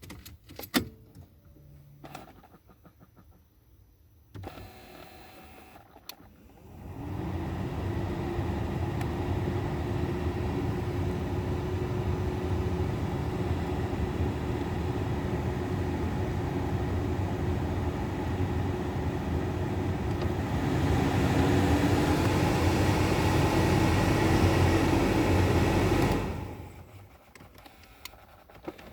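A few sharp clicks, then a small electric motor in the VW Golf 5's heating and ventilation system runs with a steady whir. About two-thirds through it rises in pitch and gets louder, then cuts off suddenly.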